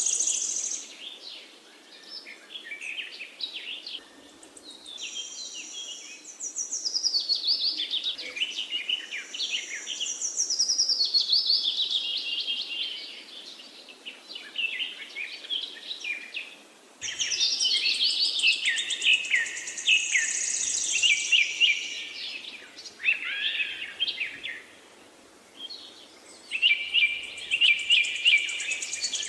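Parakeets chattering and chirping in quick, overlapping high calls, with a few short lulls and a sudden change in the mix about 17 seconds in.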